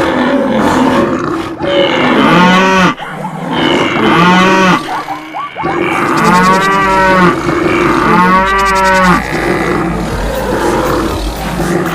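Cattle mooing: four long calls one after another, each lasting about a second, over a steady background din.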